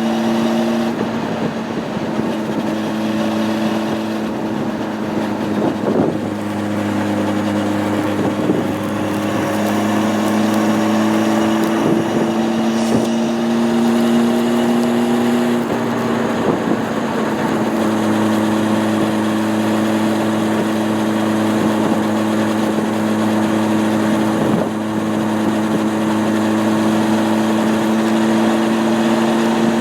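Honda CB600F Hornet's inline-four engine running at steady cruising revs, its pitch creeping slowly upward, with short breaks in the note about 1, 6 and 16 seconds in. Wind rushes past the microphone throughout.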